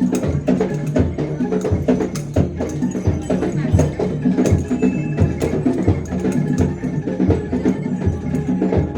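Live Javanese percussion ensemble accompanying a bantengan performance: drums, gongs and sharp clicking strikes keep up a steady, driving beat.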